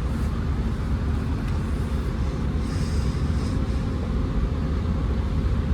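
Steady low rumble of a Class 165 diesel multiple unit's diesel engine, heard from inside the carriage.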